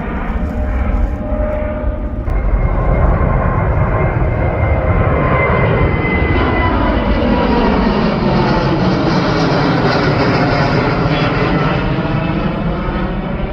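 Jet airliner passing close by, its engine noise loud and steady with whining tones and sweeping shifts in pitch as it goes past. The sound changes abruptly about two seconds in, then grows louder.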